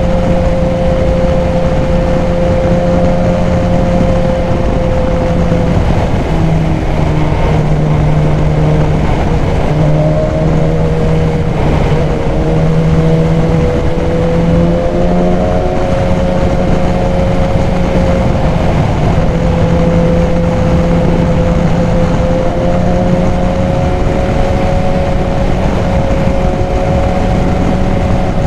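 BMW S1000XR motorcycle's inline-four engine, fitted with a K&N high-flow air filter, running under way on the road. Engine speed eases off about six seconds in, climbs again from about ten seconds and settles, then rises slowly near the end, over a steady rush of wind.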